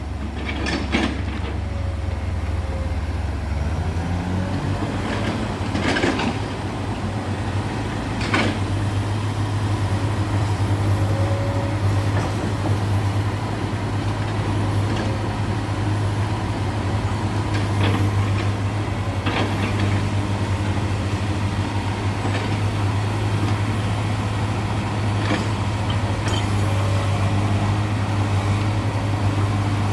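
Heavy diesel engine running steadily, its note stepping up about four seconds in, with several sharp knocks scattered through.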